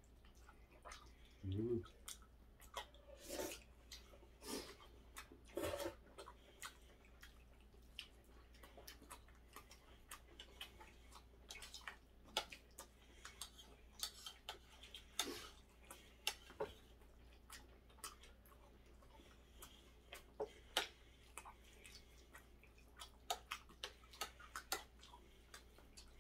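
Faint eating sounds of a man chewing crispy battered sweet-and-sour pork: scattered small mouth clicks and lip smacks, with a short hummed voice sound about a second and a half in.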